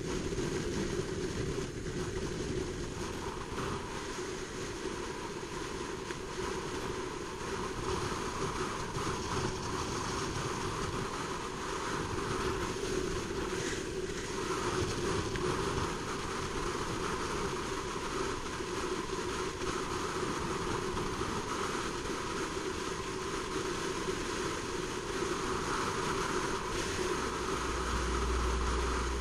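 Honda CBR600RR inline-four engine running at a fairly steady pitch while being ridden, with a deeper low rumble coming in near the end.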